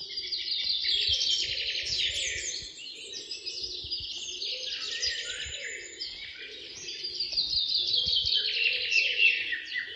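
Birds chirping and trilling in a continuous, busy chorus of rapid high-pitched calls.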